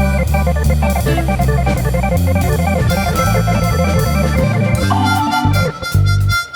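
Instrumental background music led by an organ over a bass line and steady beat. About five seconds in, it thins out to a sparser passage with one long held high note.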